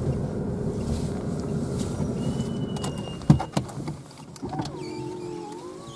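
A car's engine and road rumble as the car slows to a stop, then a quieter, steadier hum with a few faint steady tones. A single sharp click a little over three seconds in.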